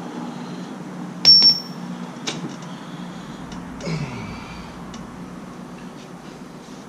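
A sharp metallic clink about a second in that rings briefly, then lighter clicks and a short scrape: steel tools and brake parts being handled.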